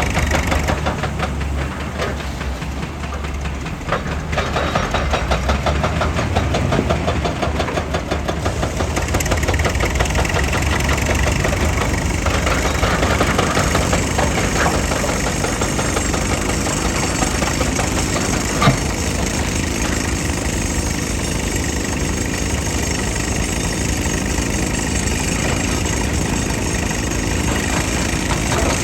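Heavy diesel machinery engine running steadily and loudly, with a fast pulsing in the first few seconds and a single sharp knock about two-thirds of the way through.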